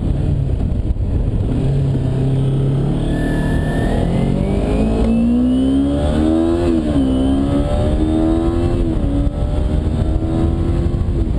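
2009 Kawasaki Ninja 250R's parallel-twin engine accelerating through the gears: its pitch climbs, drops sharply at each upshift, about three times, and climbs again, over steady wind and road noise.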